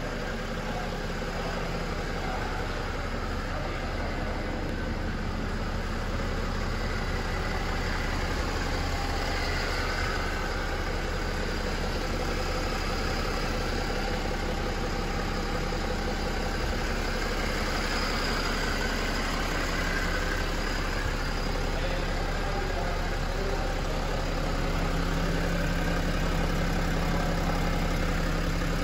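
BMW 335d's 3.0-litre twin-turbo straight-six diesel idling steadily, a little louder near the end.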